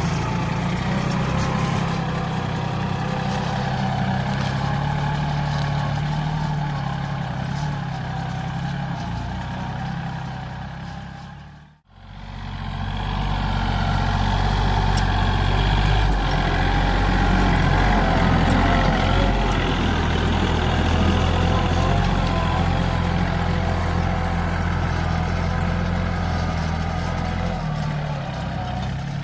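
Diesel engine of a 40 hp Yanmar tractor running steadily while pulling a share plough. The sound fades out briefly a little before halfway and then returns.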